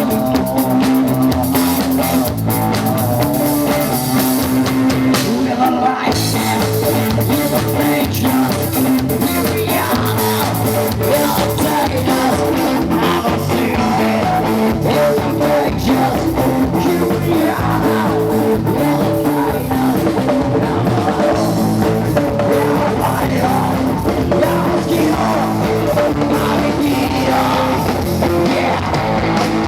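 Rock band playing live: electric guitar and drum kit driving a steady beat.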